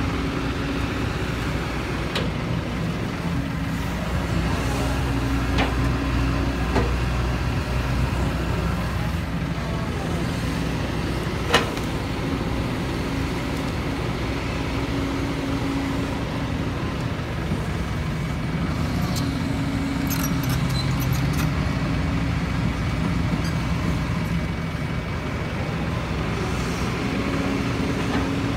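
Heavy diesel engine running steadily, its pitch shifting slightly now and then, with a few light knocks and one sharp metallic clank about eleven and a half seconds in.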